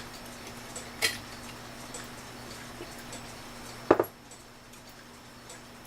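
A clock ticking steadily and faintly, with sharp metallic clicks from handling the clock movement: one about a second in and a louder double click about four seconds in.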